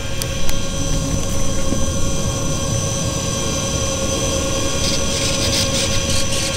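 Electric motors and propellers of an RC model C-130 Hercules running at a steady speed, giving a steady high whine over a rushing noise.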